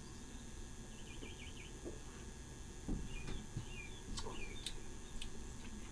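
Faint bird chirps in the background: a quick run of short chirps about a second in, and a few more varied chirps in the middle, with a few soft clicks.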